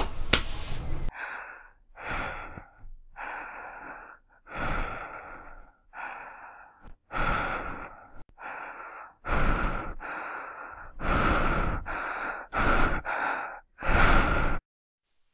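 A person breathing hard in a series of short, separate gasps, about fourteen in all, with brief quiet gaps between them; they stop abruptly shortly before the end.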